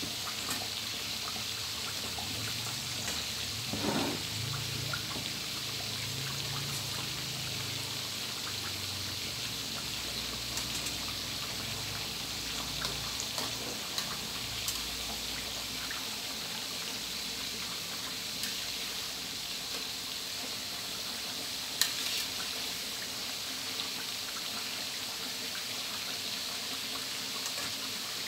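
Chicken frames deep-frying in a wok of hot oil: a steady sizzle with small crackles and pops, and one sharp tap late on.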